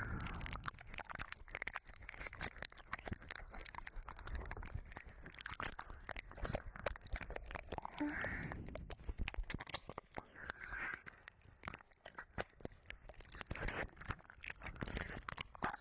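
Wet ear-licking and mouth sounds into a 3Dio binaural microphone: dense tongue and lip clicks and smacks, with a few soft breaths.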